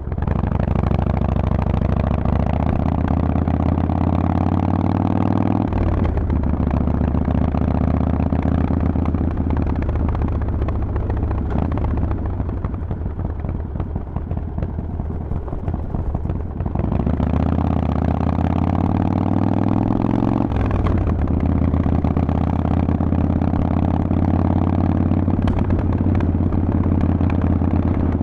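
Harley-Davidson Forty-Eight's air-cooled 1200 cc V-twin through a Vance & Hines exhaust, pulling away with rising pitch. It shifts up with a sudden drop in pitch after a few seconds, runs steady, then eases off. Halfway through it accelerates again with rising pitch, shifts up once more, cruises and backs off near the end.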